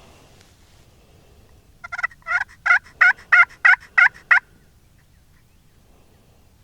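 A series of about ten turkey yelps, roughly three to four a second, growing louder over the first few notes and lasting about two and a half seconds.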